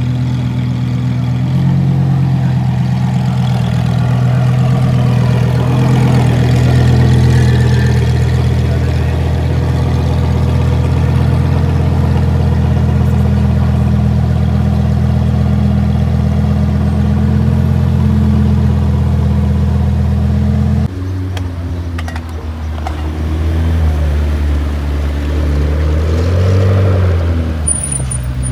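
Car engine idling steadily close by. Its sound changes abruptly about twenty seconds in, and its pitch rises and falls briefly near the end.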